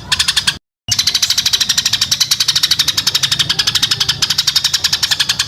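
A songbird's rapid-fire repeated notes (a tembakan), about ten sharp high notes a second, with a brief cut to silence just under a second in.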